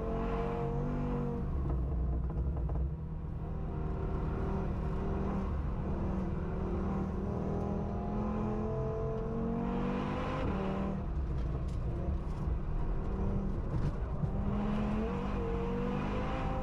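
Audi RS3 2.5-litre turbocharged five-cylinder engine, swapped into an Audi S1, pulling hard under acceleration. Its pitch climbs through the revs and drops back at upshifts, most clearly about ten seconds in, then climbs again near the end.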